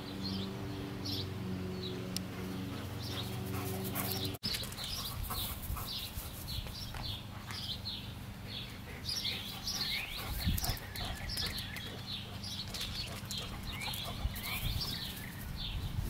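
Songbirds chirping and singing, with many short calls repeating throughout. A steady low hum sounds under them at first and cuts off abruptly about four seconds in.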